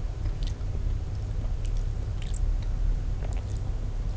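A person eating rice with her hands: chewing and licking her fingers, with scattered small wet mouth clicks. Underneath runs a steady low hum.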